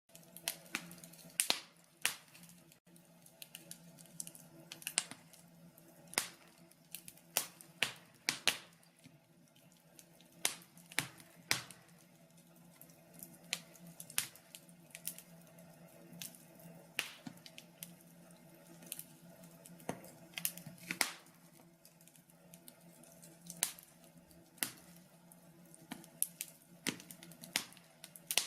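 Logs burning in a wood-burning stove, crackling with irregular sharp pops and snaps, sometimes several a second, over a steady low hum.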